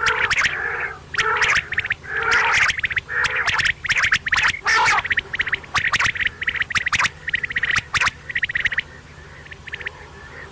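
Quail calling: repeated short bursts of rapid clicking trills mixed with lower warbling notes, over a faint steady low hum, with a short pause near the end.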